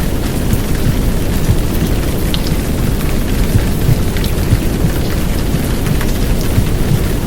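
Heavy downpour of rain, a steady dense hiss with scattered drop ticks, layered over a low womb-sound rumble made for settling babies to sleep.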